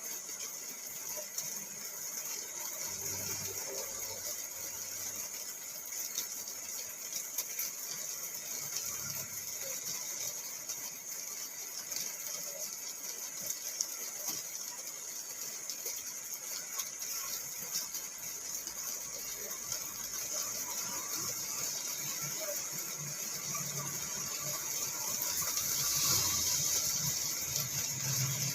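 Rain falling on a car's roof and windows, heard from inside the car: a steady hiss with many small drop ticks, getting a little louder near the end.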